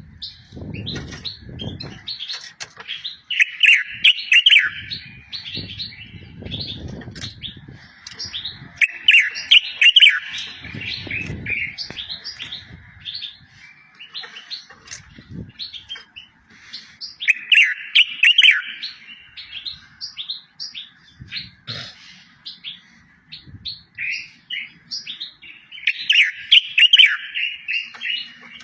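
A small songbird singing: rapid repeated chirps and twittering trills, with a louder trilled phrase every several seconds and low rumbling now and then underneath.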